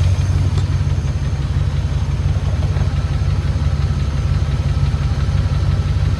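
Land Rover P38 Range Rover engine idling steadily, with a slight ticking still there that the owner puts down to a sticking valve or lifter, only partly eased by Rislone in the oil.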